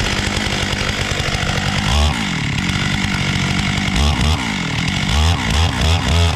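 Two-stroke chainsaw running at a steady high speed, then from about two seconds in its engine speed rises and falls over and over.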